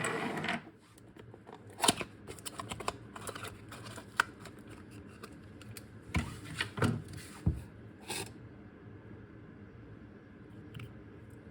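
Hands handling car parts and tools: scattered clicks, light knocks and rustling, with a louder rush of noise right at the start and a cluster of sharper knocks a little past the middle.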